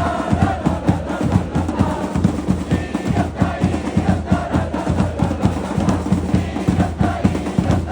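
Football supporters' drums beating a fast, steady rhythm, with the crowd chanting faintly along.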